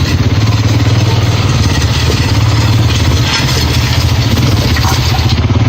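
Four-wheeler (ATV) engine running steadily as it is ridden along a dirt path, with some rattling from the machine.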